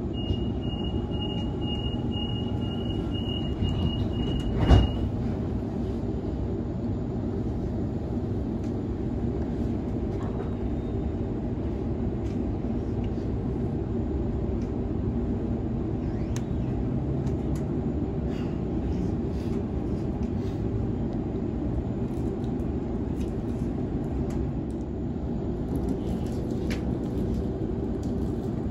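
Inside a Sydney Trains Waratah Series 2 (B-set) carriage: a steady high electronic tone sounds for about five seconds and ends with a loud thump, followed by the steady low rumble of the train running.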